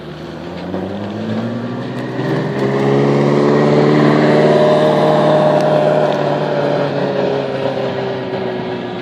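Ferrari F40's twin-turbo V8 driving slowly past at close range. The engine note climbs in pitch and loudness as the car approaches, is loudest about halfway through, then drops away as it pulls off.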